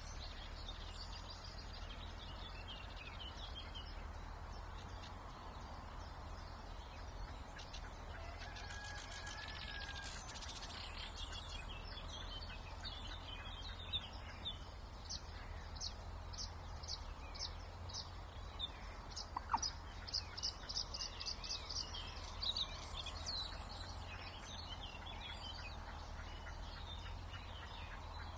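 Several songbirds singing together in a spring wetland, with a run of sharp repeated notes, two or three a second, in the second half. A steady low rumble of background noise runs underneath.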